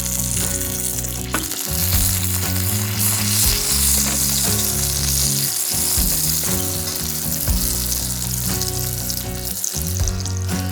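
Bacon-wrapped camembert sizzling and frying in a pan, a steady crackling hiss, with background music underneath.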